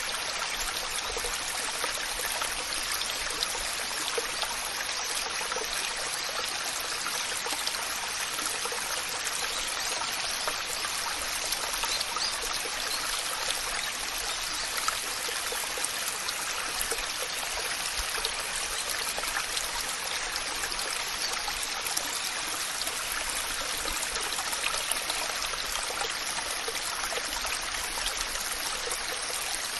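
Waterfall water falling and splashing: a steady, even rush with little low rumble and no change.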